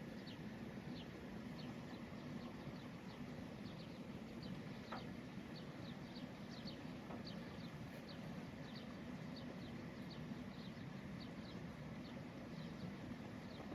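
Small birds chirping: short, high, downward-sliding chirps, two or three a second, over a steady low rumble.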